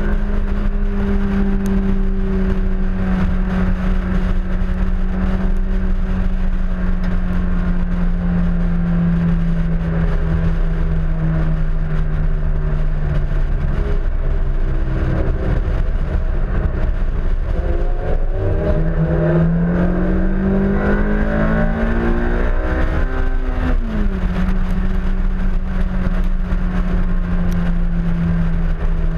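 Honda S2000's four-cylinder engine running hard on a race track, heard from outside the car against heavy wind rush on the microphone. The engine note sags slowly, then climbs steadily under acceleration for several seconds before dropping sharply, about three-quarters of the way through, and holding steady again.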